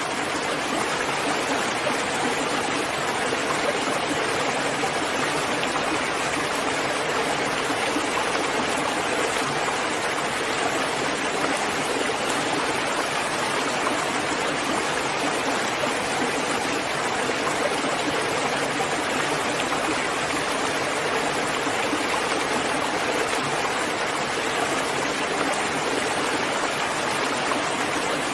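Steady rain, an even unbroken hiss of falling water with no distinct drops or other sounds standing out.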